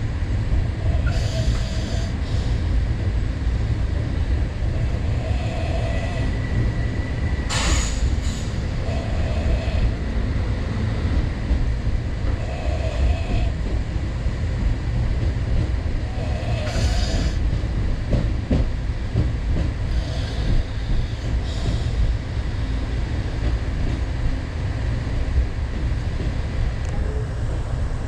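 Express train running: a steady low rumble with recurring bursts of wheel and coach clatter, and one sharp clank about seven or eight seconds in.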